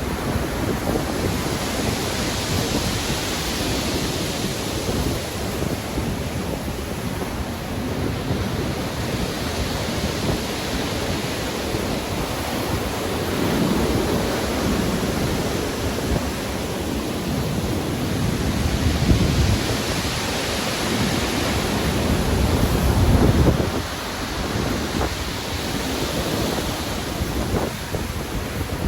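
Stormy ocean surf with wind: waves breaking and washing in, the hiss rising and falling in swells every several seconds. The heaviest, deepest surge comes about three-quarters of the way through.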